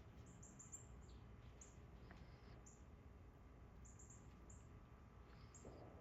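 Faint, short, very high bird chirps, a dozen or so scattered irregularly, some in quick runs of two or three, over a quiet outdoor background.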